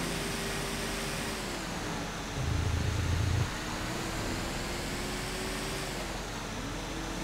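Truck engine running, its pitch dropping about a second and a half in and again near the end, with a louder low rumble for about a second around two and a half seconds in.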